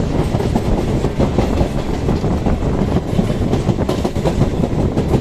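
A moving suburban local train and an express running side by side on parallel tracks, heard from the local's open doorway: a loud, steady rumble of wheels on rails, full of rapid clattering.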